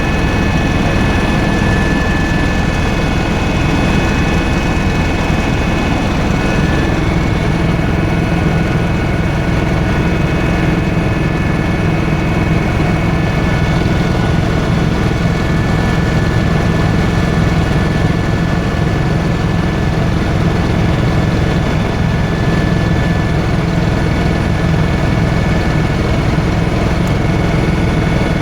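Tour helicopter running steadily: a constant engine and rotor drone with a thin high turbine whine over it.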